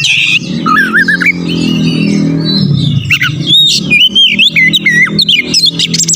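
Oriental magpie-robin (kacer) singing a fast, varied string of whistles, trills and harsh squawky notes, over a low steady drone.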